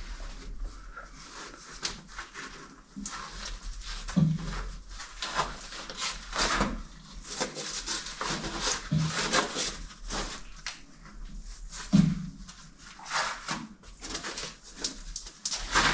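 A caver squirming through a tight rock squeeze: irregular scraping and shuffling of clothing and gear against rock, with strained breathing and a few short grunts.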